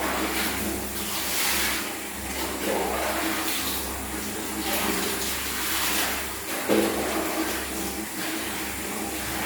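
Running water splashing, with uneven swells, as a kitten is washed.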